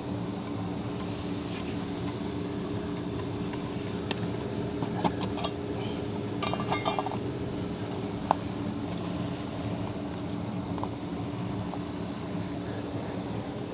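A steady machine hum throughout, with a few light metallic clicks and a brief rattle about halfway through, then a single sharp click a couple of seconds later, as of small parts or tools being handled.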